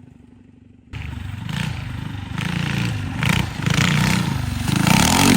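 Small mini bike engine comes in suddenly about a second in, running and revving up and down, louder near the end.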